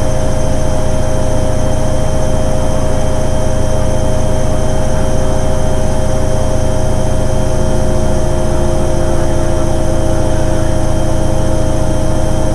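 Hoover Ecologic 800 automatic washing machine running: a loud, steady motor hum with a faint whine that drifts slightly lower about halfway through.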